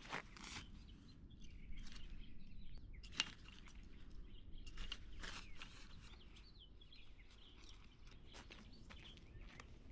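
Faint outdoor ambience: irregular footsteps and light clicks over a low background rumble, with a few faint bird chirps.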